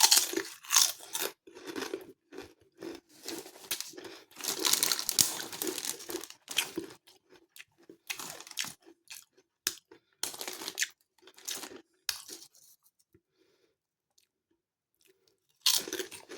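Potato crisps, Walkers Sensations Thai sweet chilli, being crunched and chewed close to the microphone in irregular bursts of crackling for about twelve seconds. A quiet pause follows, then another loud crunch near the end.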